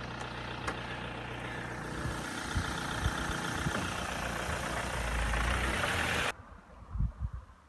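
A motor vehicle's engine running, a steady low hum with road noise that grows louder over a few seconds, then stops abruptly about six seconds in.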